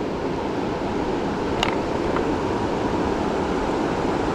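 Steady rushing of flowing river water, with one brief click about a second and a half in.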